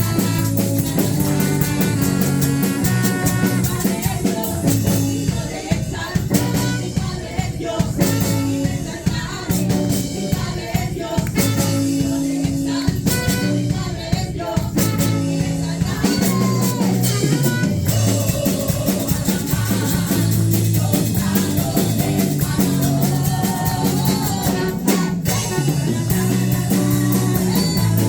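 Live band music with drum kit and guitar playing a steady beat, with some singing.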